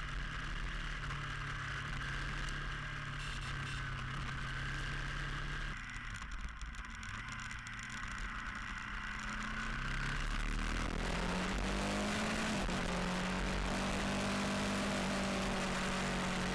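Vehicle engine and road noise picked up by a dashcam while driving. The engine note changes about six seconds in, and from about ten seconds on it grows louder and steadier, rising briefly in pitch a little later.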